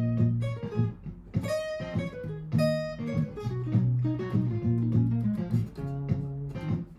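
Martin GPCPA4 acoustic guitar played through a looper: a repeating loop of low strummed chords, with single picked notes ringing out over it.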